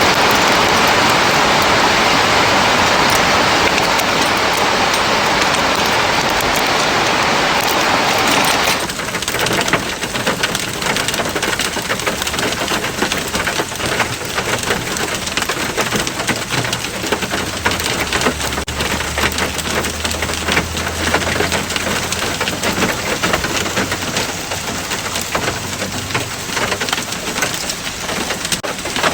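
Heavy rain mixed with hail: a dense hiss for the first nine seconds or so, then a drop to a thinner patter of separate sharp strikes. A low rumble of thunder comes in the middle and fades.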